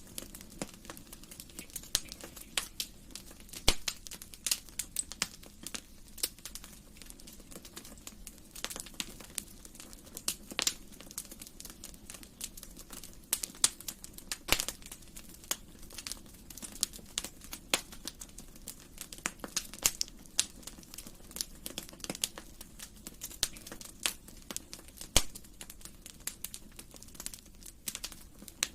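Wood fire in a fireplace crackling, with frequent irregular sharp pops and snaps over a low steady hiss.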